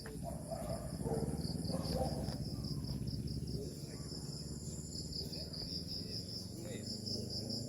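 Crickets chirping in a steady, rapid pulse that runs without a break, over a low rumble.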